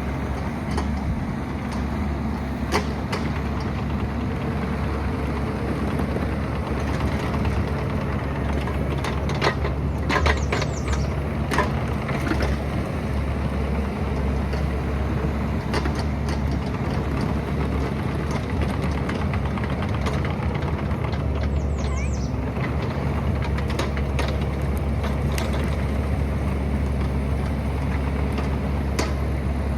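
Excavator's diesel engine running steadily under work, with scattered knocks and clanks. A brief high squeal comes about ten seconds in and again about twenty-two seconds in.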